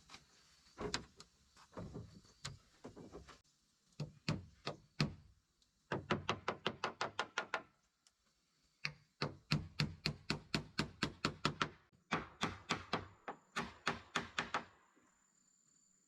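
Rapid runs of sharp knocking strikes, a hand tool hitting wood at about five to seven blows a second, with short pauses between the runs.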